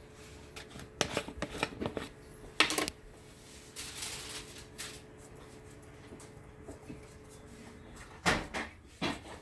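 Kitchen handling noises: clusters of light knocks and clicks from containers and utensils being moved, a short rustle about four seconds in, and a faint steady hum underneath.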